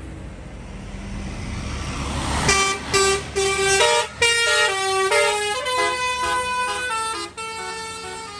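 A heavy vehicle's diesel engine rumbles. About two and a half seconds in, a loud multi-tone musical air horn of the Indonesian "telolet" kind starts and plays a melody of short stepped notes to the end.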